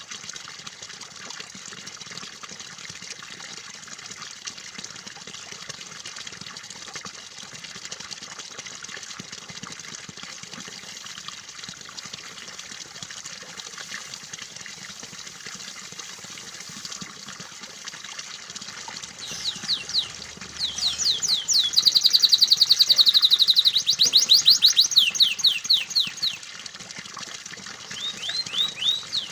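Steady running, trickling water, then about two-thirds of the way in a canary starts singing loud, fast trills of rapidly repeated notes, with a short break before it sings again near the end.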